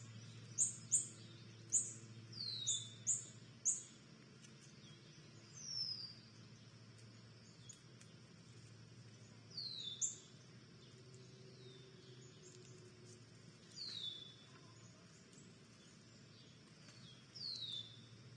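Wild birds calling: a quick run of short, high chips in the first few seconds, and a short downslurred note repeated about every four seconds.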